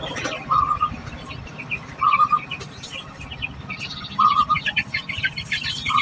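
Society finches chirping: a scatter of short, high chirps that grows denser about two-thirds of the way through. A short buzzy lower note repeats four times, a second and a half to two seconds apart.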